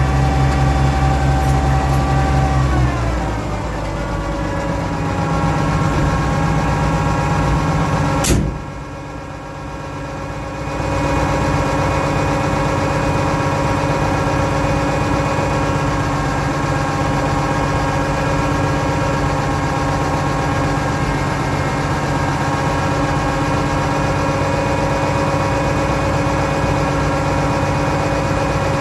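Oliver 1650 tractor engine running, dropping in speed about three seconds in. A sharp click comes about eight seconds in, it is quieter for about two seconds, then it runs steadily.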